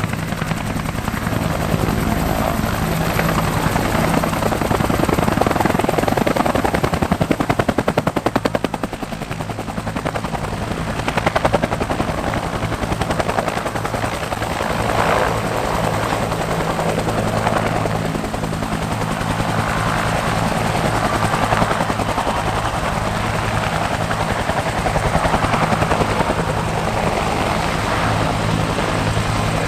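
Helicopter running: a steady, fast chop of rotor blades over a low engine drone.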